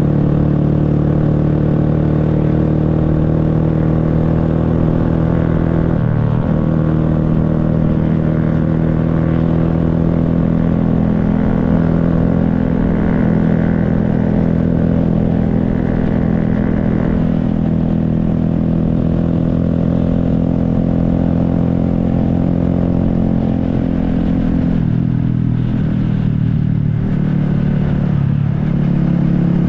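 Honda Grom's small single-cylinder engine running steadily while riding. Its pitch dips briefly about six seconds in, drops about twenty-five seconds in and climbs again near the end.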